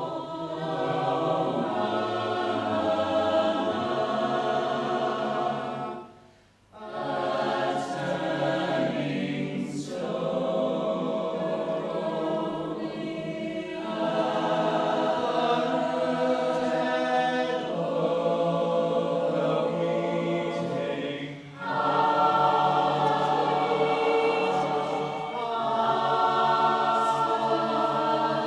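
Choir singing sustained harmonies, with a short break about six seconds in and a brief dip a little after twenty seconds.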